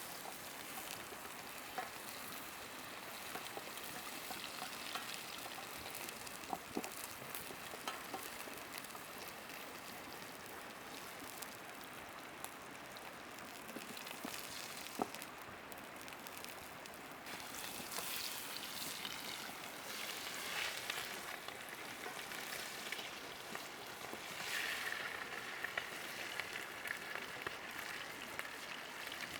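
Meat frying in a pan over a campfire: a steady sizzle with scattered sharp pops, swelling louder about two-thirds of the way through.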